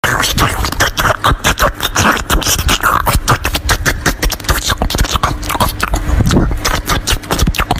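Close-miked ASMR eating: rapid, crisp crunching and chewing as bites are taken from a series of foods, a dense run of clicks and crackles.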